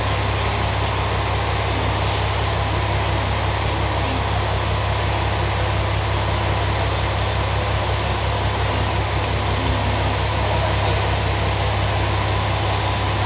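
Two-car electric train standing idle at a platform: a steady low hum and fan whir from its onboard air-conditioning and equipment.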